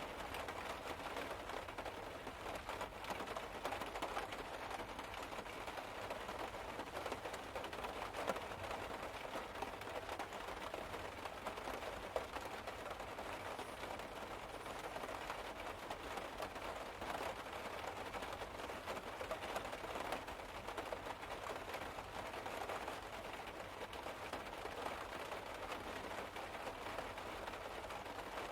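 Rain pattering steadily on the car's roof, heard from inside the car: a dense, even patter of many small drops with the odd heavier drip standing out.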